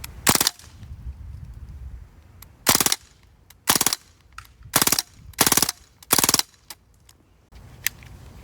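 Umarex Strike Force CO2 BB gun firing six short bursts of shots at uneven intervals, followed by a small click near the end.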